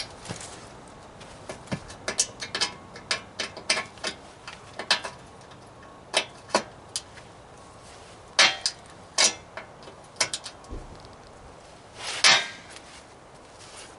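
Irregular metallic clinks and knocks as metal objects are handled. A few louder, ringing clanks come about two-thirds of the way through and again near the end.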